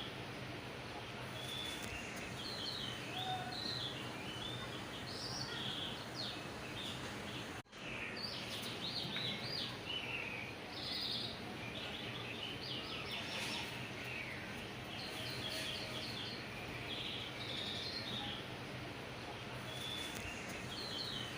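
Small birds chirping and calling in short, repeated bursts over a steady background hiss. The sound drops out for an instant about seven and a half seconds in.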